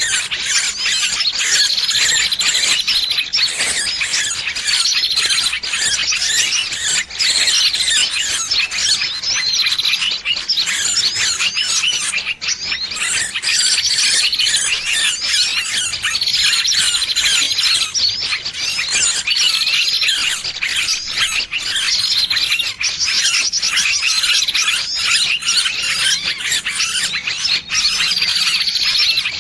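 Bird-lure recording of a trapped small bird's distress squeals over a dense, busy chorus of small birds' chirps, with a short high call repeating about every two seconds.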